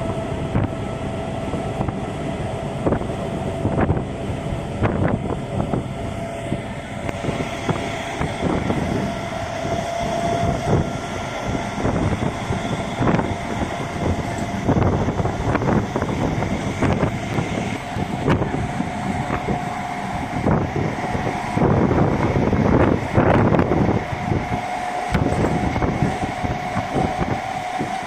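Train running on rails: a continuous rumble with irregular clacks of wheels over rail joints and a steady whine.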